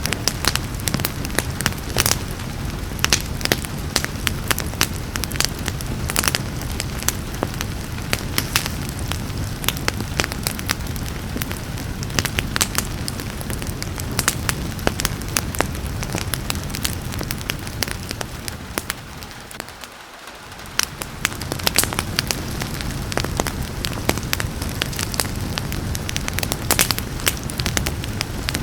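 Wood fire crackling, with frequent sharp pops over a steady hiss of rain. The sound briefly dips and swells back about two-thirds of the way through.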